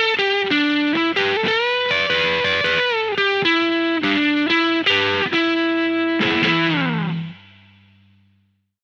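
Electric guitar boosted by an Electro-Harmonix LPB-1 pedal into a mildly distorted tone, playing a single-note lead line with string bends. Near the end a held note slides down in pitch and rings out, fading away.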